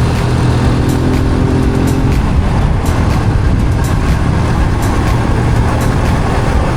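Motorcycle engine running steadily at cruising speed, under a constant rush of wind and road noise on the microphone.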